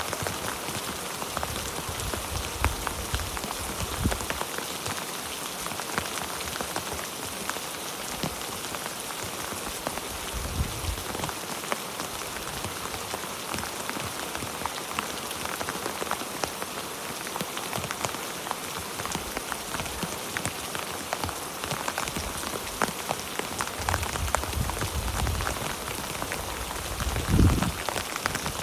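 Steady heavy rain with dense, fine drop ticks. A few low rumbles swell and fade, the strongest near the end.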